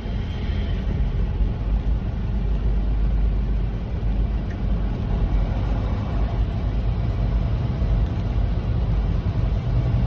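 Semi truck driving, heard inside the cab: a steady low engine drone with road noise.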